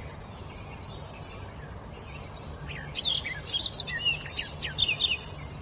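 A wild songbird singing a short, rapid phrase of high, quick sweeping notes, starting about three seconds in and lasting about two seconds, over a steady low background hum.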